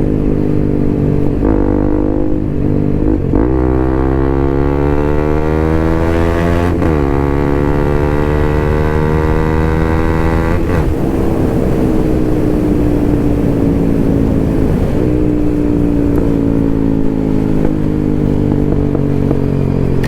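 Bajaj Pulsar NS200's single-cylinder engine under way, accelerating through the gears: its pitch climbs, drops at upshifts about three, seven and eleven seconds in, then falls slowly as the bike eases off.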